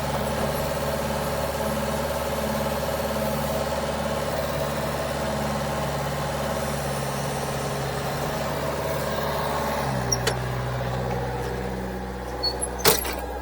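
The engine of a log-lifting machine running steadily. Its note drops about ten seconds in, and a few short knocks or clanks follow near the end.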